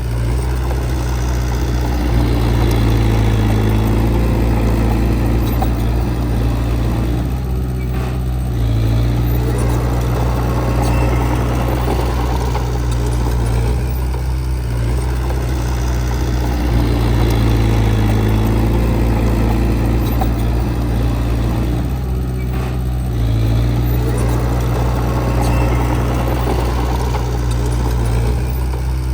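Diesel engine of heavy earthmoving equipment running continuously, its sound swelling and easing in a cycle about every seven seconds.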